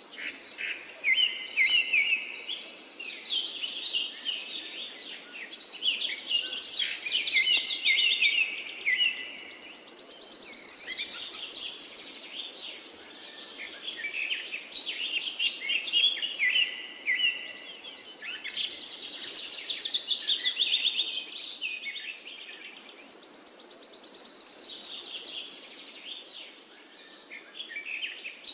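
Several birds chirping and trilling in quick, varied phrases. A longer, high buzzing trill comes in twice, about ten seconds in and again near the end.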